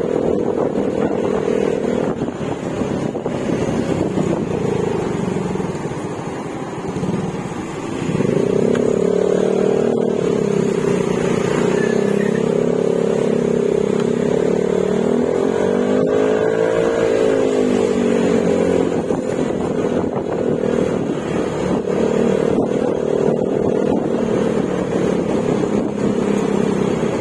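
Yamaha Mio Gravis scooter's single-cylinder engine running through an aftermarket Akrapovic exhaust with silencer while riding. The engine eases off about six seconds in, picks back up near eight seconds, and swells up and down in pitch around sixteen seconds.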